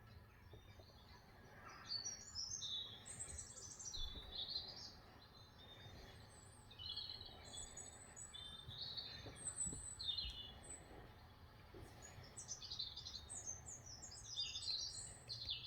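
Small songbirds chirping and singing, played through a TV, in three bouts of quick high notes with short pauses between them, over a low steady hum.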